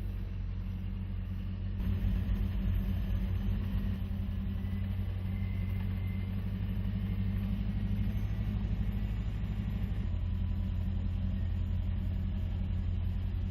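Caterpillar 777 off-road dump truck's diesel engine pulling a full load uphill: a steady low drone that gets louder about two seconds in and then holds.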